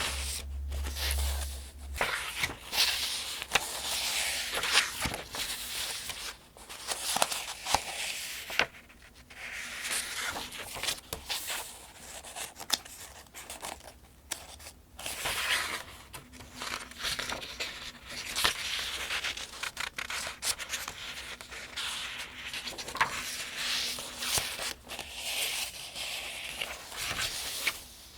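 Pages of the 2025 Farmers' Almanac being turned one after another: papery swishes and rustles every few seconds, with short quiet gaps between turns.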